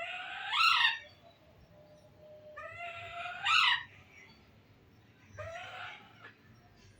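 A parrot calling loudly three times, each call a drawn-out cry that rises in pitch; the first two are the loudest.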